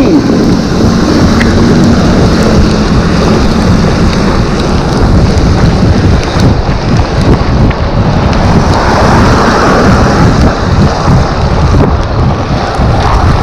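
Loud wind buffeting the microphone of a rider on an electric bike in the rain, mixed with rain noise.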